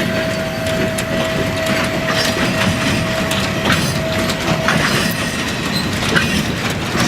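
Small electric locomotive moving slowly along the track, its wheels clicking and knocking over the rails, with a steady whine that stops about four and a half seconds in.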